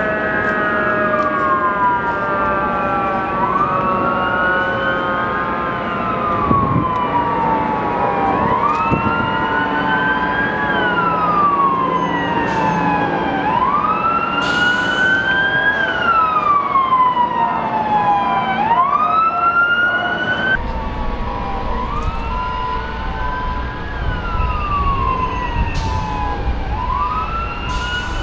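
Several emergency-vehicle sirens wailing together, their pitch rising and falling every few seconds and overlapping with steadier siren tones. A low rumble joins about two-thirds of the way through.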